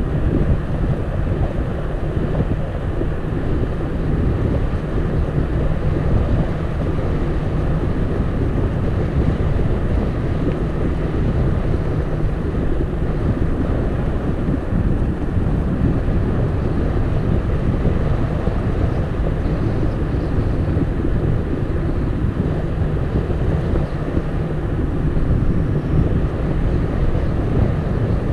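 Wind buffeting the microphone of a camera on a moving bicycle: a steady low rumble of rushing air.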